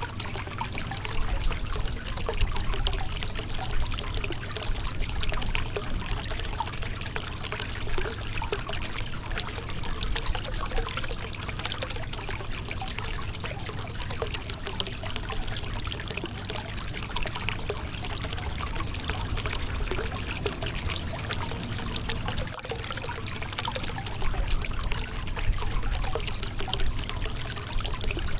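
River water running over a rocky bed, a steady trickling and splashing.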